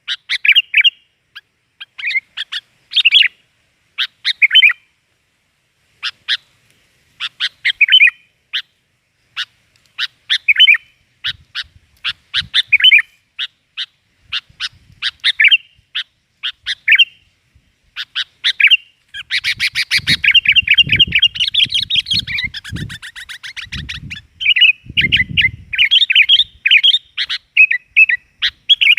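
Sooty-headed bulbuls calling: short bursts of quick, bright notes with pauses between them, turning into dense, continuous chattering about two-thirds of the way through, with a few low thumps underneath.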